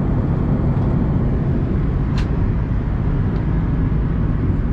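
Steady low rumble of airflow and engines inside the cabin of an Airbus A330-200 airliner in flight, with one brief click about two seconds in.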